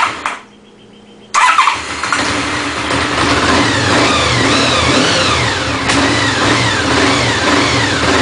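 Honda VFR750F's V4 engine running unevenly. It drops away briefly about half a second in, comes back loud about a second later, then runs with repeated throttle blips, the pitch rising and falling about once a second. The owner hears it as misfiring.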